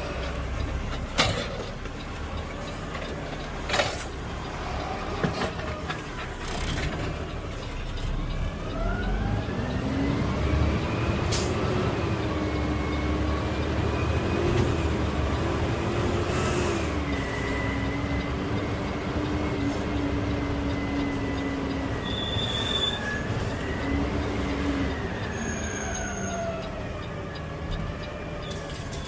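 Garbage truck engine: a few sharp knocks at first, then the engine drone rises in pitch about eight seconds in, holds steady with small dips and bumps, and winds back down near the end.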